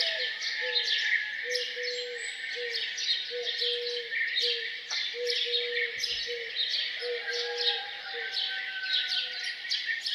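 Morning chorus of many songbirds chirping and singing over one another, with a short low note repeating roughly twice a second underneath.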